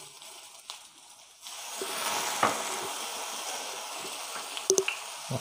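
Chopped onion and capsicum sizzling in a hot black iron kadhai while being stirred with a steel ladle. The sizzle grows suddenly louder about a second and a half in, with a few sharp clinks of the ladle against the pan.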